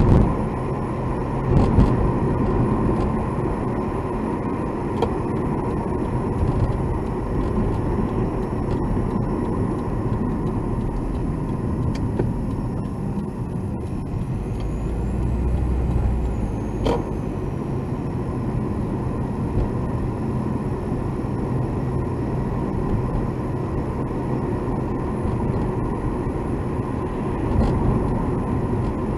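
Car cabin noise while driving: a steady road and engine drone with a few short clicks, the sharpest about 17 s in. The clicks may be the abnormal noise the recording was made to capture.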